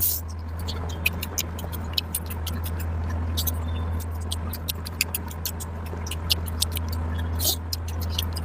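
Close-miked chewing of curry and rice: many short, sharp wet mouth clicks and smacks, irregular throughout, over a steady low hum.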